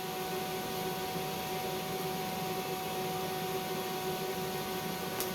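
Steady electrical hum with several fixed tones over a constant hiss.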